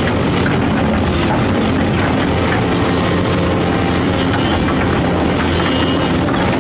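Diesel engine of a large hydraulic excavator running steadily with a low, even drone.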